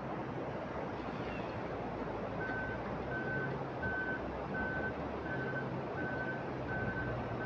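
A vehicle's reversing alarm beeping at an even pace, about one and a half beeps a second, starting a couple of seconds in. Under it an engine runs with a low steady hum, and a steady rushing noise runs throughout.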